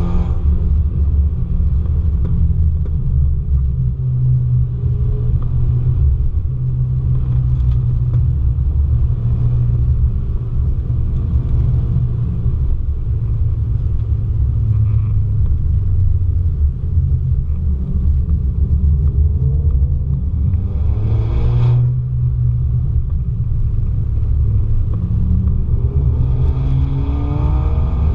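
Car engine heard on board at track speed: a loud, steady low rumble. The revs rise about twenty seconds in, with a short sharp knock there, and climb again near the end.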